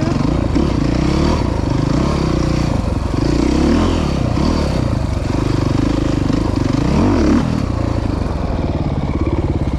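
Dirt bike engine running as it is ridden along a trail. The engine note rises and falls with the throttle, with a quick rev up and back down about seven seconds in.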